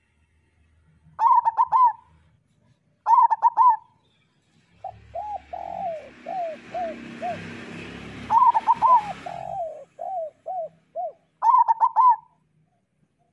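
Zebra doves (perkutut) cooing: short bursty phrases of quick stuttering notes, three times. Between them runs a longer, softer series of lower repeated coos over a background hiss.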